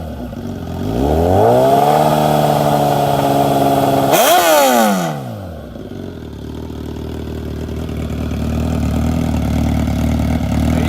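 2015 Suzuki GSX-R1000 inline-four motorcycle engine with a Voodoo exhaust being revved: the revs climb about a second in and hold high, blip once more about four seconds in, then drop back to a steady idle.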